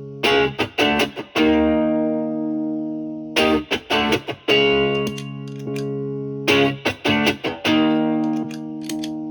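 Electric guitar (Fender Stratocaster with three single-coil pickups) played through a Bluesbreaker-style overdrive pedal into a Marshall amp's clean channel. The same short phrase is played about three times: a few quick strummed chords, then a chord left ringing for a couple of seconds.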